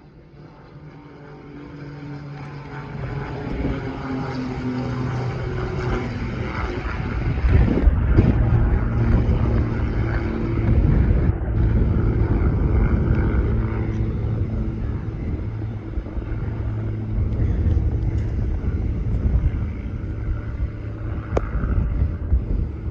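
Airplane engines growing steadily louder as an aircraft approaches over about eight seconds, then running loud with a low, steady drone.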